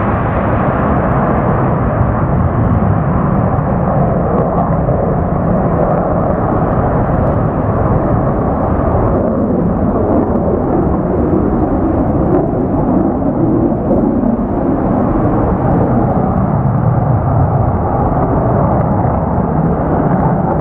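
Jet engines of F-15 fighters after takeoff: a loud, steady, deep rumble with no let-up, its upper hiss thinning slightly as the jets climb away.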